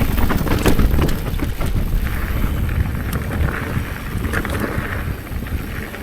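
Wind buffeting the microphone over the rumble of a bike rolling fast down a rough trail, with scattered knocks and rattles.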